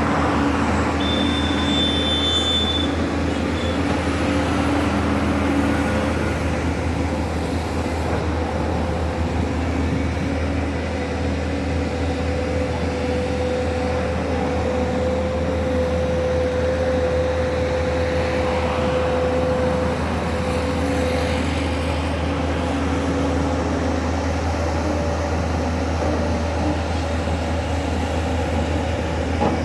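Steady low engine drone, like running heavy machinery or traffic, with a short high beep about a second in.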